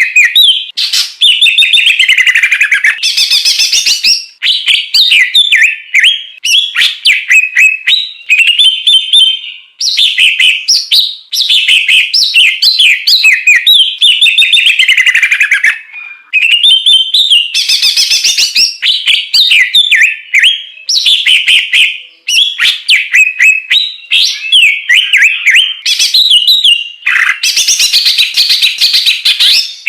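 Songbird song from a masteran tutoring recording: loud, nonstop chattering and whistling in fast, varied phrases of trills and rattling notes, broken by brief pauses every few seconds.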